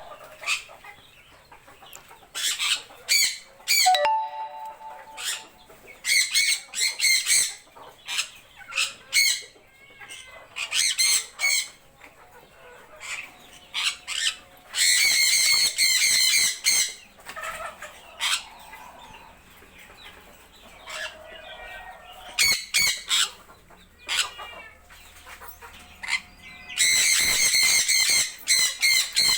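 Birds squawking and calling over and over in short harsh calls, with two long, loud screeching calls, one around the middle and one near the end.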